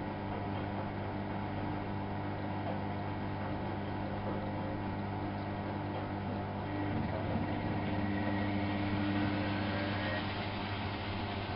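Miele Novo Super W933 washing machine running, a steady motor hum that shifts and grows slightly louder about seven seconds in.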